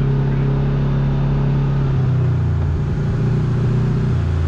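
Kawasaki KRX side-by-side's parallel-twin engine running on the trail, steady at first, then its note wavers and shifts lower about two seconds in.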